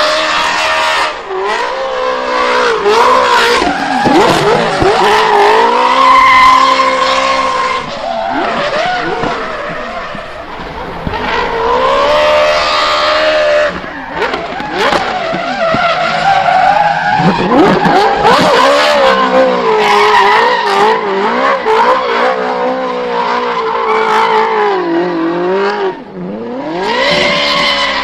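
Drift car engine revving hard, its pitch climbing and dropping repeatedly as the throttle is worked, with tyres screeching through the slides.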